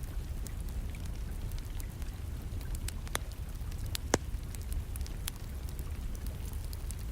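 Wood fire crackling in a fireplace, scattered sharp pops with a louder one about four seconds in, over a steady low rumble of rain.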